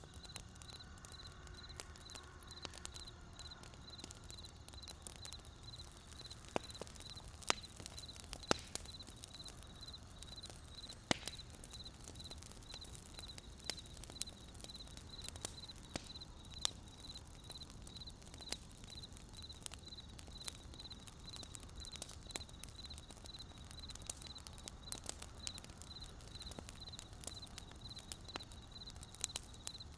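Wood fire crackling: irregular sharp pops and snaps over a low steady rumble. A faint high-pitched pulse repeats evenly, a few times a second.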